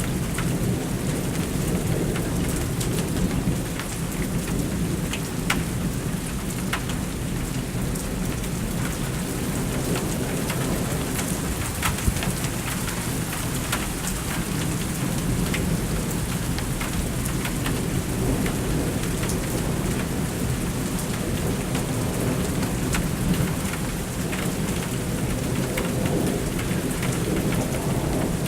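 Thunderstorm: steady heavy rain with a continuous low rumble of thunder underneath and scattered sharp drop ticks, a few louder ones standing out.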